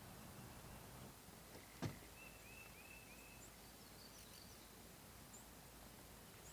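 Near silence with faint outdoor hiss: a single sharp click about two seconds in, followed by a bird's quick series of four short chirps, with a few fainter high chirps later.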